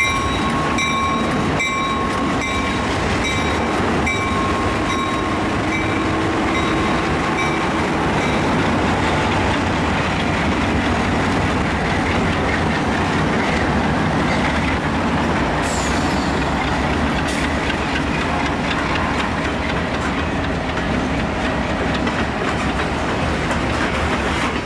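Train rolling past on the rails, a steady rumble with wheel clickety-clack. For the first several seconds a regularly repeating metallic ringing sounds over it, then fades out.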